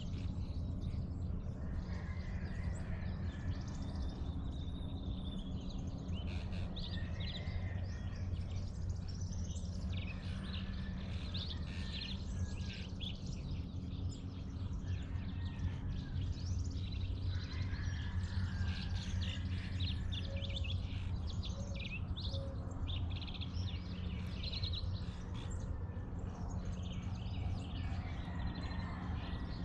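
Dawn chorus of several birds chirping and calling in overlapping short notes, over a steady low background rumble.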